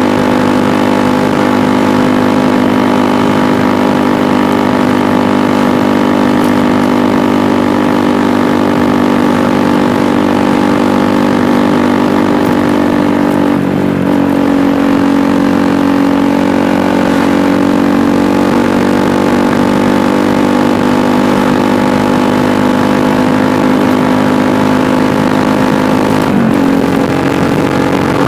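KTM Duke 390's single-cylinder engine running steadily while riding. The engine note breaks briefly and settles at a new pitch about halfway through and again shortly before the end.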